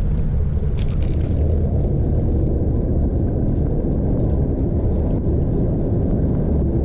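Steady low rumble of wind buffeting a chest-mounted action camera's microphone while riding a bicycle, with a faint click about a second in.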